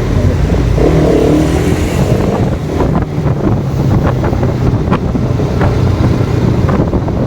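Motorcycle engine running steadily under way, with wind rushing over the helmet-mounted microphone. The bike is a Bajaj Pulsar RS200, a single-cylinder 200 cc.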